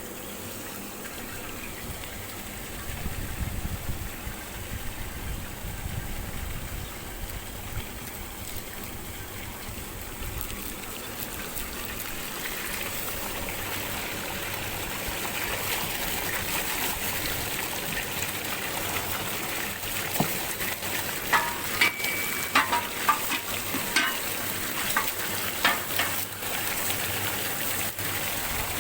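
Milk vat being washed with hot water and acid: a steady gushing and spraying of water that grows over the first half. Several sharp clicks and knocks come in the last third.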